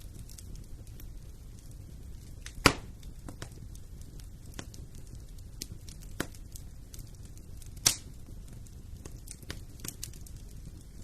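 Wood fire burning in a fireplace: a steady low rumble of flames with frequent small crackles and two loud sharp pops, about a third of the way in and again about two thirds of the way in.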